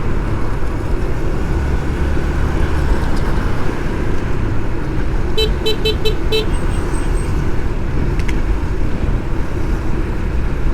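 Steady road noise of a motorcycle ride in traffic: wind and engine rumble, with five quick short horn beeps about five and a half seconds in.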